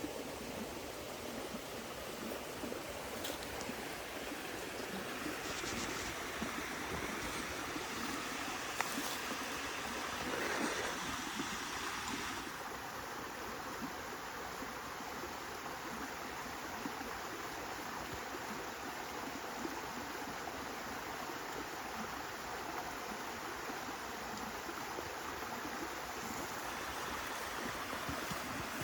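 Steady rush of running stream water, with a few faint clicks.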